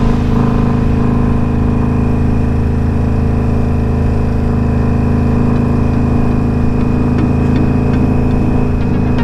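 Indian Scout Bobber's V-twin engine idling steadily at an even pitch.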